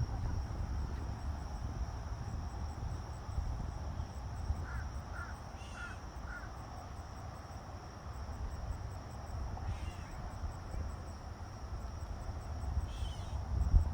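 A bird calls four times in quick succession, over a steady high insect-like chirring and a low rumble.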